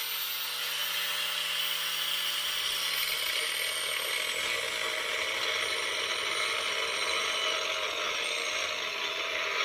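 Power grinder running steadily under load, grinding out cracks in the steel loader uprights ahead of welding, with a steady whine over the grinding noise.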